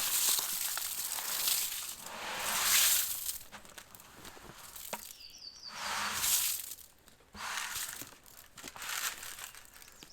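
Rustling and crinkling noise in several swells, each a second or so long, with a brief high chirp about five seconds in.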